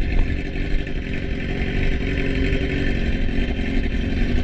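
BMW S1000RR's inline-four engine running at a steady idle through a freshly fitted aftermarket GP S1 exhaust, just after its first start-up.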